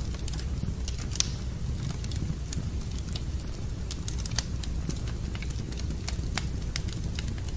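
Wood fire crackling in a fireplace: irregular sharp pops and snaps over a steady low rumble, with louder pops about a second in and a little after four seconds in.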